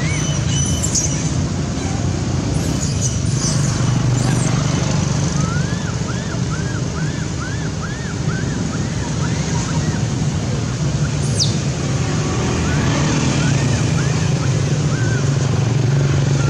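Steady road traffic rumble, with two runs of short rising-and-falling chirps, about two a second, partway through and again near the end.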